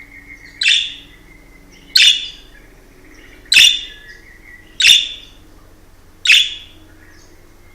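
A pet budgerigar giving five short, loud, sharp chirps, evenly spaced about a second and a half apart.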